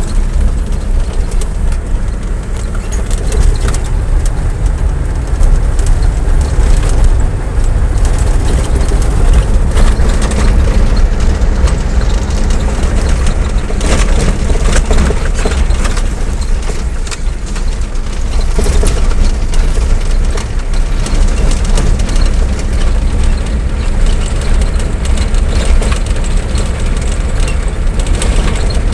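A vehicle on the move: a loud, steady low rumble of engine and road noise, with scattered clicks and knocks.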